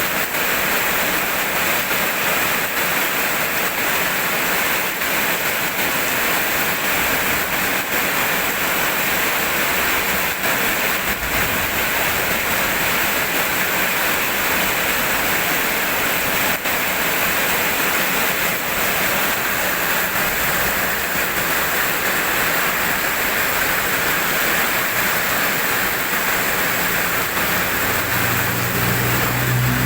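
Steady heavy rain falling, an even hiss. A low rumble starts near the end.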